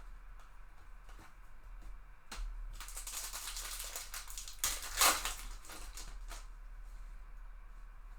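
Trading card packs being handled and opened: scattered light clicks of cards and a crinkling, rustling stretch of foil wrapper that grows loudest about five seconds in.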